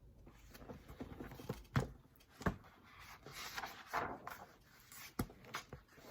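Picture book being handled and a page turned: paper rustling with a few sharp knocks.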